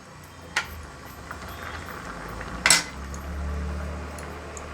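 A spoon clinking against a cooking pot as ground masala is added: a light tap about half a second in and a sharper clink near the middle. A low hum comes in over the second half.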